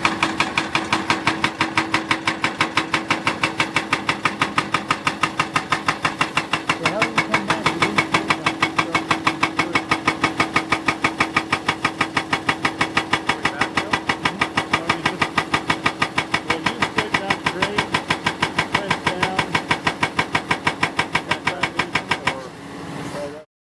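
Hydraulic rock breaker on an excavator hammering hard rock with a fast, even stream of blows, several a second, over the steady hum of the machine's engine. Near the end the hammering stops and the engine runs on alone briefly.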